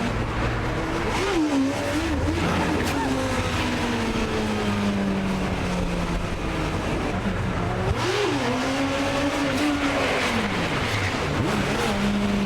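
Motorcycle engines revving, their pitch rising and falling repeatedly over a steady low drone.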